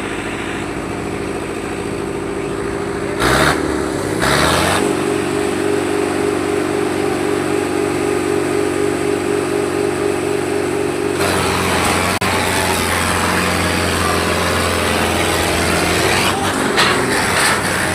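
Tractor diesel engine working hard under load, revving up a few seconds in and then holding a steady high note. About eleven seconds in it turns to a rougher, noisier run.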